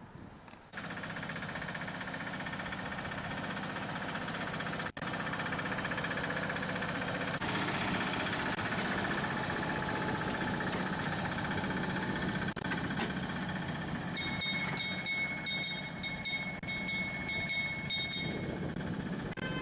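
Engine of a miniature railway train running steadily, broken by several abrupt cuts. Near the end a steady high tone sounds for about five seconds with quick ticking over it.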